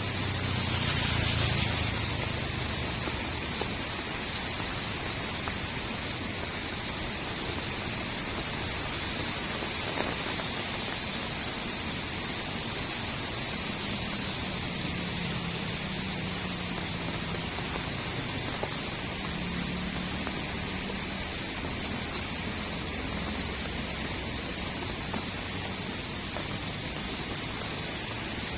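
Steady rain falling on a street, a continuous hiss, with a louder surge of water in the first couple of seconds and a faint low hum in the middle.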